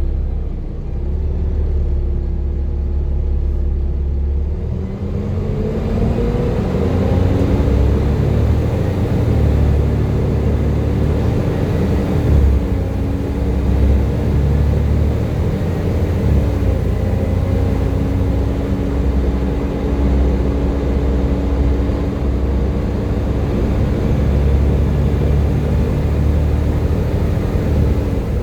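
Volvo B7TL double-decker bus under way, its engine rumbling with a hoover-like whine. The whine rises about five seconds in as the bus pulls harder, holds steady for about twenty seconds, and falls away near the end as it eases off.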